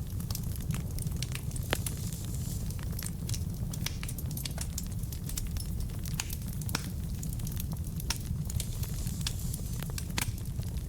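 Wood fire burning in a fireplace: a steady low rumble with sharp, irregular crackles and pops from the burning logs.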